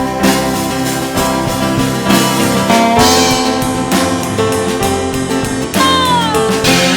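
Band playing an instrumental passage between sung lines, led by guitar with drums. A lead line slides between notes about three seconds in and again near the end.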